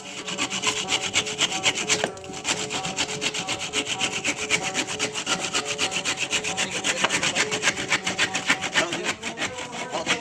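Saw cutting through wood in quick, even back-and-forth strokes, with a brief break about two seconds in.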